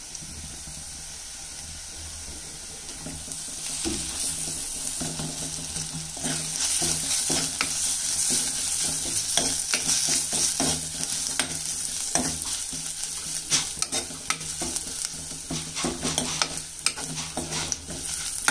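Onions and freshly added ginger-garlic paste sizzling in hot oil in an earthen clay pot, stirred with a steel spoon that scrapes and taps against the pot. The sizzle grows louder a few seconds in, and the spoon's scrapes and taps come thick and fast through the second half.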